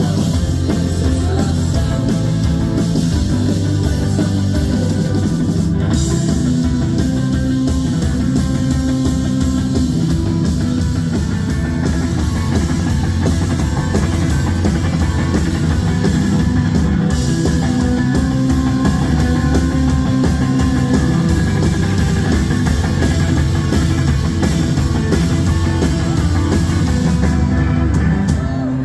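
Rock band playing live: electric guitars, bass and a drum kit. The cymbals drop away near the end.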